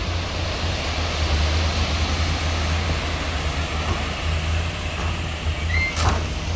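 Heavy diesel engine of earthmoving machinery running steadily with a deep, even drone. A short knock is heard near the end.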